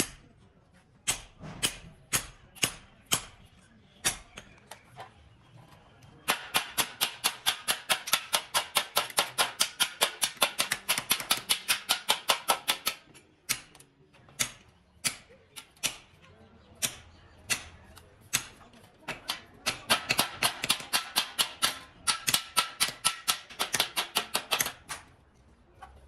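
Rapid repeated sharp strikes, like hammering. Single blows come about every half second to second, then two fast runs of about six strikes a second, the first about six seconds in and the second near the end.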